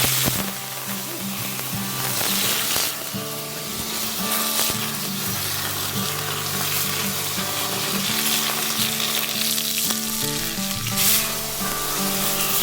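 Assassin's pasta (spaghetti fried until charred in tomato sauce) sizzling in a frying pan over a fire, stirred now and then, with louder bursts of sizzle near the start, a few seconds in and near the end.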